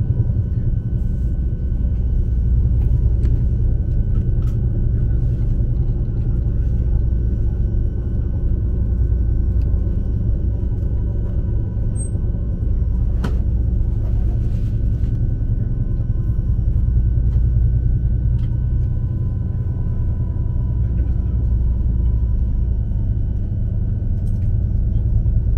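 Steady low rumble of an ICE 3 high-speed train running, heard from inside the passenger cabin, with faint steady high tones over it and a single sharp click about thirteen seconds in.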